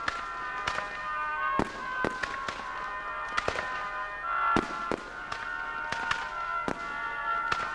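Fireworks going off, a rapid, irregular series of sharp bangs and cracks, with music of steady held notes playing underneath that shift to a new pitch about halfway through.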